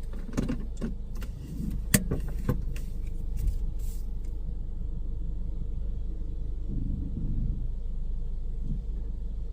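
Car running, heard from inside the cabin as a steady low rumble, with a few sharp clicks and knocks in the first three seconds.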